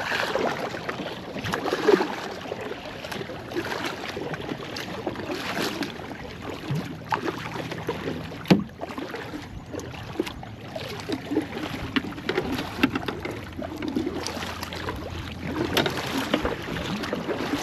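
Canoe being paddled across water: paddle strokes splashing and dripping, with occasional sharp knocks.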